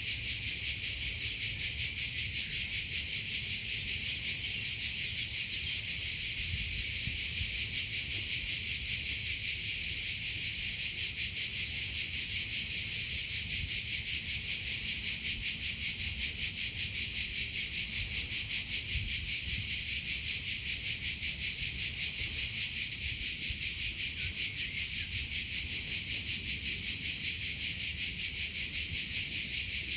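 Cricket chirping steadily in a fast, even, high-pitched trill that does not let up.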